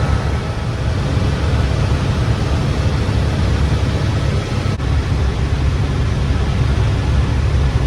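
Helicopter cabin noise in flight: a steady, loud, heavy low rumble from the engine and rotors, with a hiss over it.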